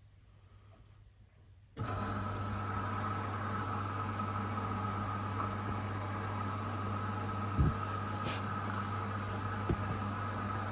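Hoover DXOA610AHFN-80 washing machine starting its cycle: a steady mechanical hum cuts in suddenly about two seconds in and runs on, with two short knocks near the end.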